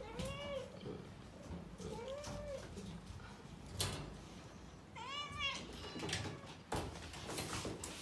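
Domestic cat meowing three times, each call rising and then falling in pitch, the third higher and louder, with a few sharp clicks between the calls.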